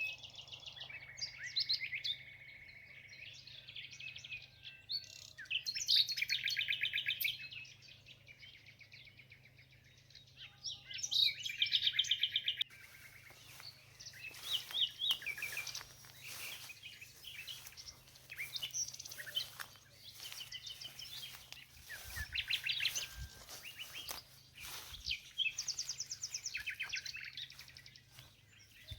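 Several songbirds calling and singing, overlapping chirps and runs of fast repeated notes.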